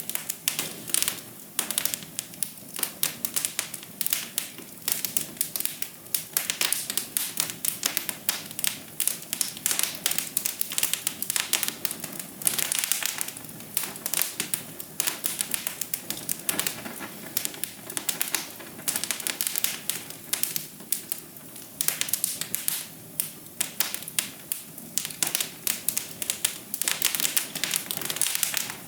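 Wood fire crackling, with many irregular sharp pops and snaps over a steady soft hiss.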